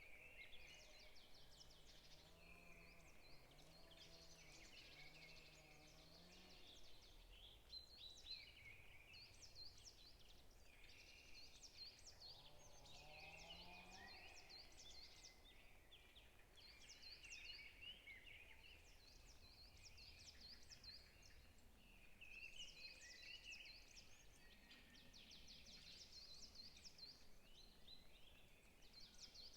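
Faint forest birdsong: many birds chirping and trilling in quick, overlapping high notes throughout, with a deeper call repeated about three times early on and a low rising call near the middle.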